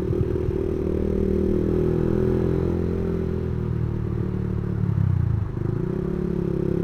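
Yamaha MX King 150's single-cylinder four-stroke engine running through an aftermarket racing exhaust while being ridden. The engine note holds steady, then dips briefly about five and a half seconds in before picking up again.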